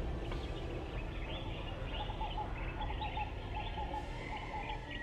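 Outdoor ambience of birds chirping and calling repeatedly over a steady low rumble.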